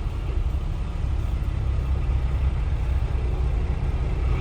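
A truck's engine running steadily with a low drone, heard from inside the cab.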